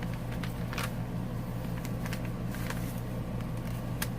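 A few short clicks and light rustles of paper and card being handled as a handmade journal's pages and tags are turned and shown, over a steady low hum.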